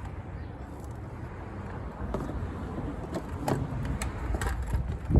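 Plastic air intake box being handled and fitted into the engine bay: a scatter of short knocks and clicks over a steady low rumble, with a louder knock at the very end.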